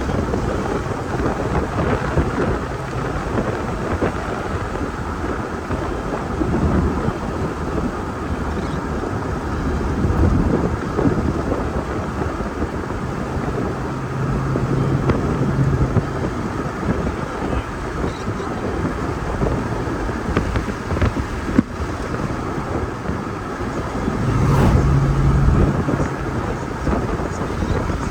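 Thunderstorm ambience: a steady rush of wind and rain noise with low rumbling thunder, swelling louder for a couple of seconds near the end.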